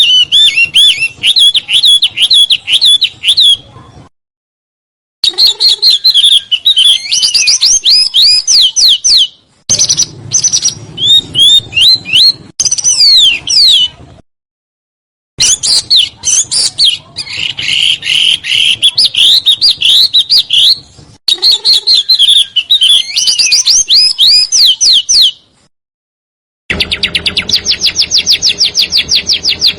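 Small songbird singing loud, tight rolls of fast chirps and sweeping whistled notes. The song is cut off abruptly three times by short gaps of silence, and after the last gap, near the end, a very fast, even trill runs over a faint low hum.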